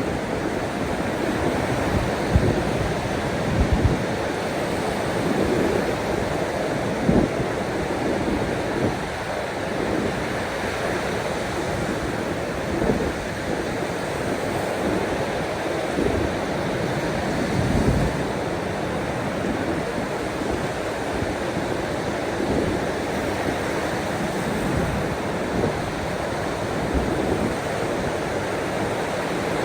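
Ocean surf washing steadily, with a few brief low thumps now and then.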